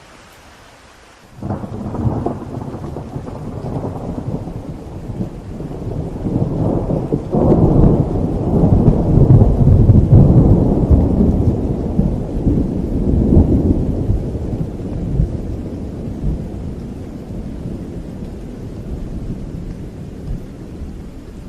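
A long, rolling peal of thunder over steady rain. It breaks in suddenly about a second in, swells to its loudest near the middle, then slowly rumbles away.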